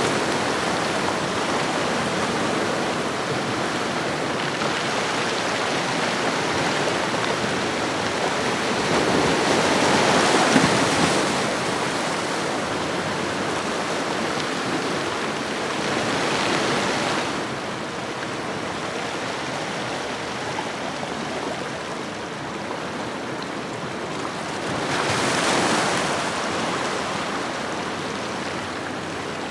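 Ocean waves washing onto a shoreline: a steady rush of surf that swells louder about a third of the way in, again a little past halfway, and once more near the end.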